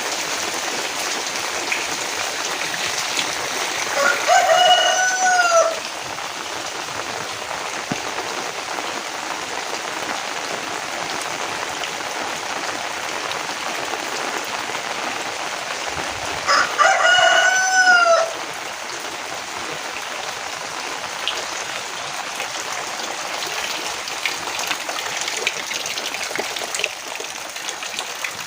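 Steady heavy rain with a rooster crowing twice, each crow about two seconds long, the two about twelve seconds apart.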